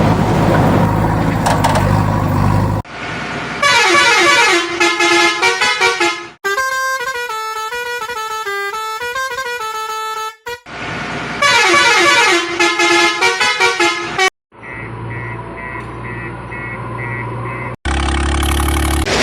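A string of vehicle sound effects. A steady low engine hum comes first, then melodic horn tunes played as quick runs of stepped tones, then a row of evenly repeated short high beeps and a brief low hum near the end.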